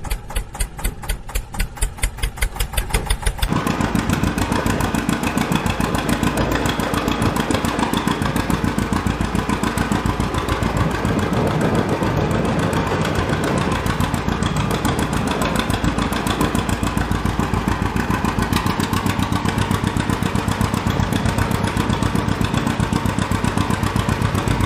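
Engine idling with a rapid, even chug. About three and a half seconds in it becomes louder and fuller and keeps running steadily.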